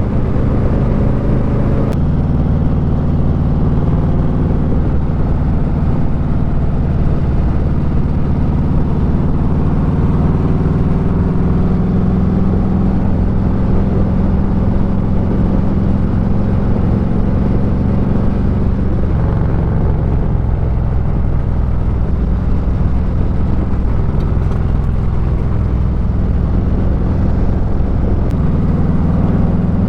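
Motorcycle engine running while riding, a steady low drone whose pitch steps up and down a few times as the revs change.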